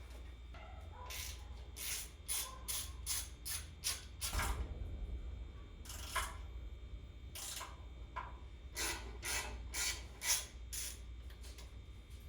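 Ratchet wrench working bolts in short strokes: a quick run of about seven swings, a pause with a couple of single strokes, then another run of about six, as the intake manifold bolts are taken out.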